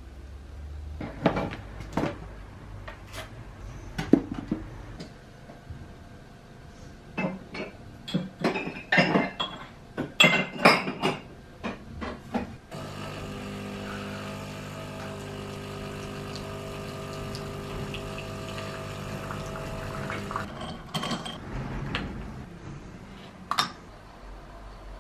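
Dishes and cutlery clinking and knocking as they are handled, then a small appliance humming steadily for about eight seconds and stopping, followed by a few more clinks.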